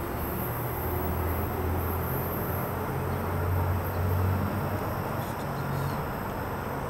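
Amtrak passenger train rolling slowly away along the track: a low, steady rumble that swells slightly about halfway through, then eases.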